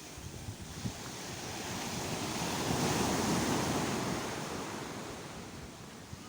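Sea waves breaking on a shore: a wash of surf swells to a peak about three seconds in and draws back, with wind buffeting the microphone in low thumps near the start.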